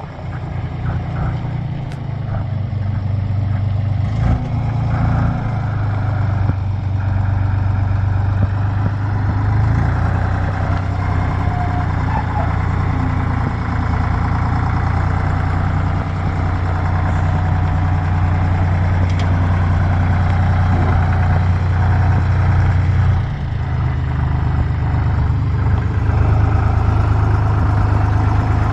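Deutz D 45 06 tractor's air-cooled diesel engine running steadily at idle just after starting, with a brief drop in level about 23 seconds in.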